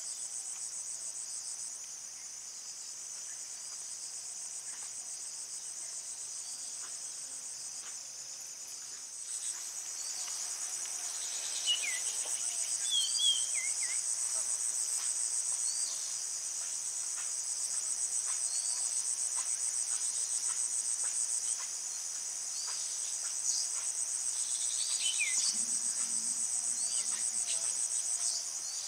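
Steady high-pitched insect chorus, a continuous fine trill that grows louder about ten seconds in. A few short high chirps come through over it.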